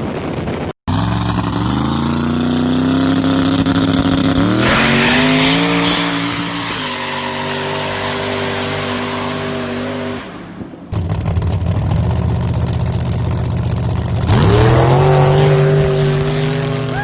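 American muscle-car V8 engines under hard acceleration, the pitch climbing and then holding in three separate pulls. The pulls come from separate clips with abrupt cuts between them.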